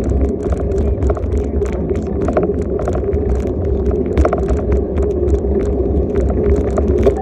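Bicycle riding along a street: a steady low rumble with frequent small rattles and clicks from the bike and the road surface.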